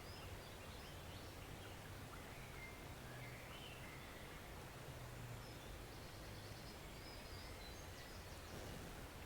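Faint, steady rush of a small woodland stream, with brief bird chirps scattered over it.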